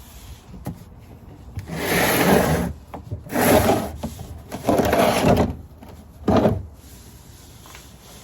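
Four rough scraping sounds, each between half a second and a second long, with short quiet gaps between them.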